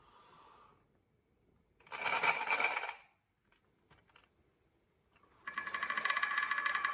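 Marbles rolling and clattering along a wooden marble run: a loud burst of rattling lasting about a second, a few light clicks, then a fast, continuous rattle with a ringing tone starting near the end.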